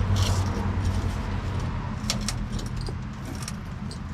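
Scattered light metallic clinks and rattles as a pickup's leaf spring is worked down out of its hangers, over a steady low hum.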